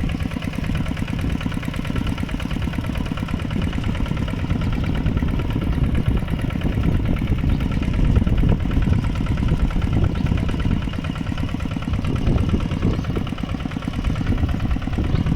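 Mini tractor's engine running steadily with a rapid chugging beat, working in a muddy rice field.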